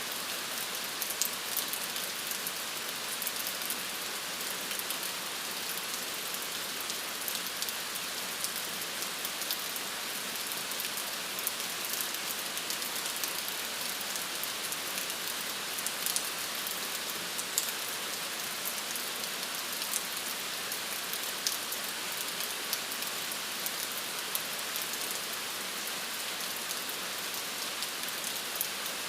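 Steady rain falling, an even hiss with many scattered sharp drop ticks on a hard surface.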